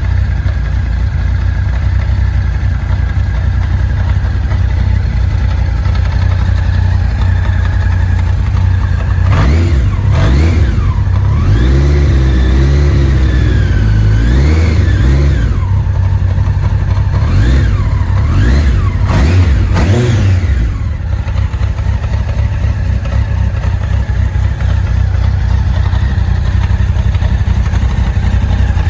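Honda CBR1100XX Super Blackbird's inline-four engine idling, then blipped and revved up and down several times in the middle, before settling back to a steady idle.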